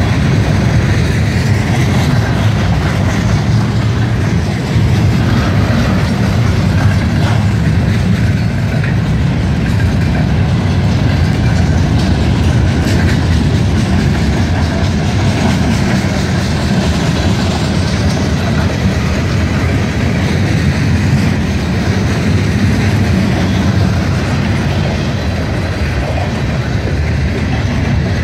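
CN freight train's cars rolling past at speed: a steady, loud rumble of steel wheels on the rails.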